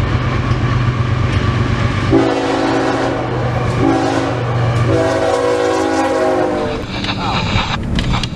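Diesel freight locomotive horn sounding a long blast, a short one and a long one over the steady sound of the locomotive's engine, followed near the end by rail clatter.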